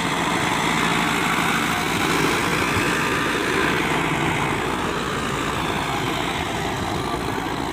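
Sonalika DI 55 tractor's diesel engine running steadily.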